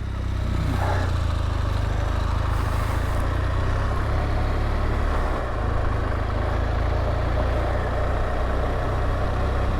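BMW R1200GSA boxer-twin motorcycle engine running steadily, a deep even drone with road and wind noise over it.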